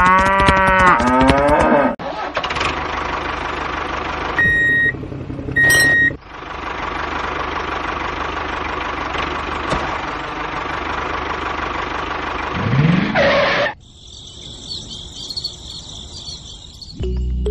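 A cow moos, then a motor runs steadily for about ten seconds with a faint whine, broken by two short beeps. Near the end comes another rising moo, followed by a quieter high-pitched rattling.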